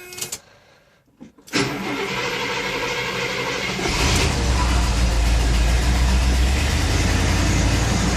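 1973 Cadillac Eldorado's 500 cubic-inch V8 being started cold after sitting a couple of weeks: a few clicks, then about two and a half seconds of starter cranking, then the engine catches about four seconds in and settles into a steady idle with a strong low rumble.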